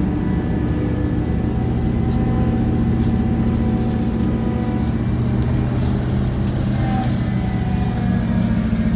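An engine running steadily: a low, even drone with a few held humming tones above it.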